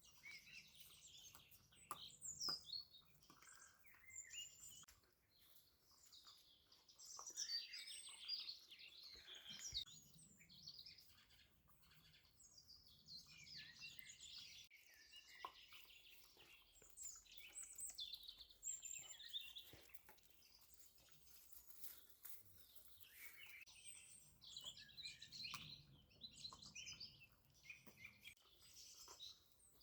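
Newborn Cardigan Welsh Corgi puppies squeaking and whimpering faintly, many short high-pitched chirps overlapping.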